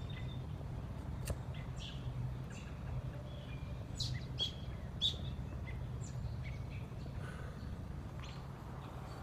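Wild songbirds chirping: short, scattered calls, several in a cluster around the middle, over a steady low background hum.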